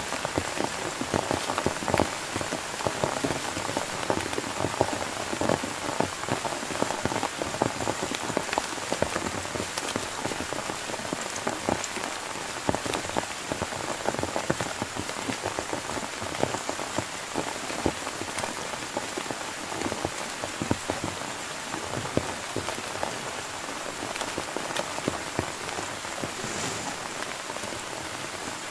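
Heavy rain falling steadily, with many sharp ticks of close raindrops striking.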